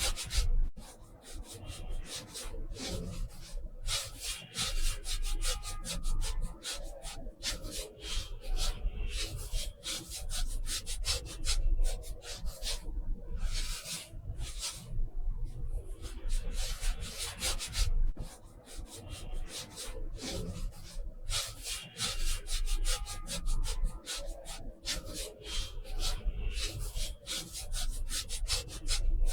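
A drawing tool scratching and rubbing across paper in quick, irregular strokes.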